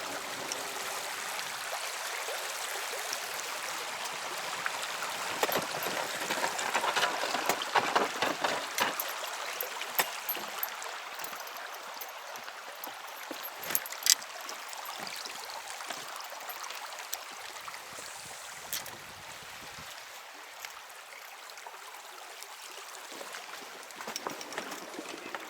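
River water running and gurgling past a drifting boat, swelling a little about a quarter of the way in, with a few sharp clicks.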